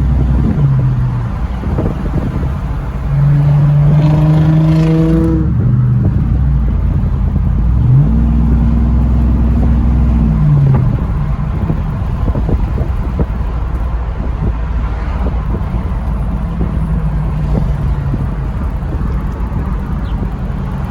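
Motor vehicle engine revving up, holding a steady pitch for a couple of seconds, then dropping back, twice, over road rumble. After that it settles to a quieter, steady run.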